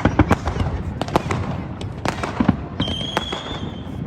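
Fireworks going off in a rapid, irregular run of bangs and cracks, with a steady high-pitched whistle sounding for about a second near the end.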